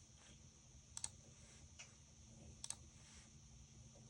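A few faint, sharp clicks of someone working a computer, two of them quick double clicks about a second and a half apart, over near silence.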